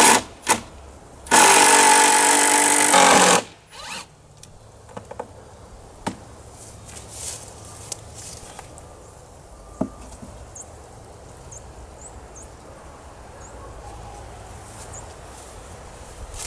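Power drill running in one steady, high-pitched burst of about two seconds, then a few light clicks and knocks.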